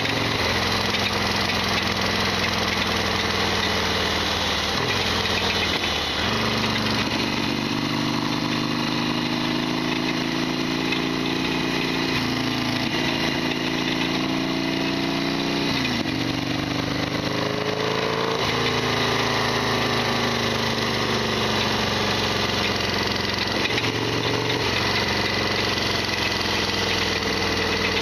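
Harley-Davidson XL1200R Sportster's air-cooled V-twin running under way. Its pitch climbs and drops back several times as the rider shifts gears, with the clattering mechanical rattle that its owner calls a loud abnormal noise.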